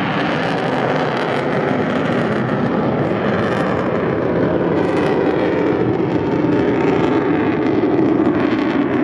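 Avro Vulcan XH558's four Rolls-Royce Olympus turbojets roaring as the delta-wing bomber flies its display. The noise grows slightly louder and drops in pitch over the second half.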